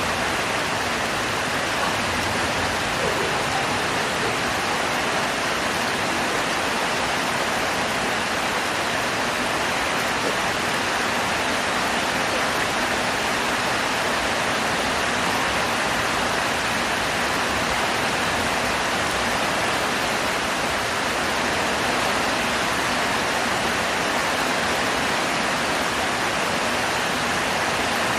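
Heavy rain falling, a steady dense hiss that holds an even level throughout.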